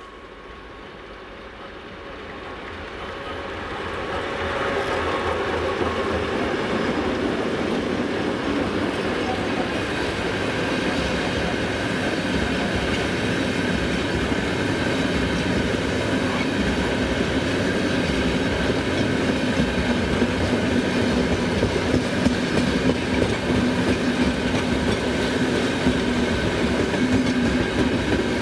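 Freight train led by a 2TE116 twin-section diesel locomotive drawing near and running past. It grows louder over the first few seconds, then holds a steady loud run with wheels clattering over the rail joints.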